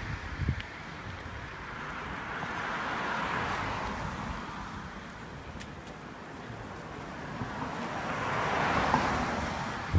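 Wind on the microphone and road noise, with two slow swells of noise, about three seconds in and again near the end, as of vehicles going past. A short knock about half a second in.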